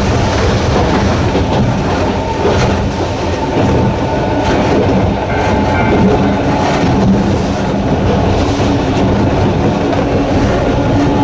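Narrow-gauge electric train of the Hokusei Line running, heard on board: the steady growl of its nose-suspended traction motors with a faint whine, and wheels clicking over the rail joints.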